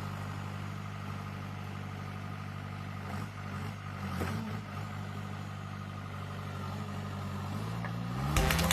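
A heavy machine's engine running steadily with a low hum, with a few knocks over it, rising in pitch near the end as it revs up.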